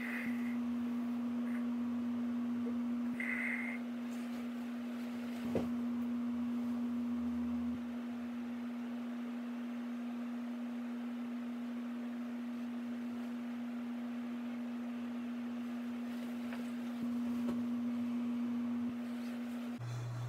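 A steady low hum at a single pitch, with two short high beeps near the start and a single click a few seconds later.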